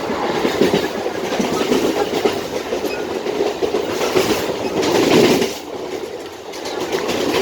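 Indian Railways local train running, heard from on board: steady rumble and rattle with clickety-clack of the wheels over rail joints, louder for a moment about two-thirds of the way through, then easing briefly.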